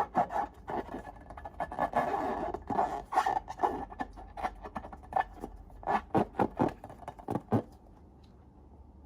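Slime being worked by hand or with a tool: a quick run of sticky clicks, crackles and scrapes that stops about seven and a half seconds in.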